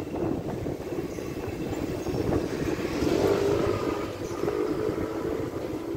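Thameslink electric multiple-unit train running past on the main line: a continuous rumble of wheels on rail that swells to its loudest about three seconds in, with a faint steady whine in the middle.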